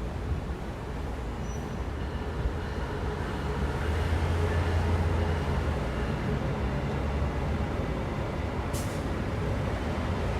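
Downtown street traffic with a heavy vehicle's engine rumbling low, swelling about four seconds in. A short hiss comes near the end.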